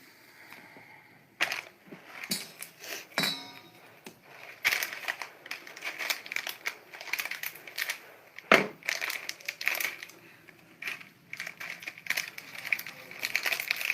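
Close-miked eating: irregular crunching and crackling as crisp food is bitten and chewed, with sharp cracks scattered through it. The loudest crack comes about eight and a half seconds in, and a brief clink comes about three seconds in.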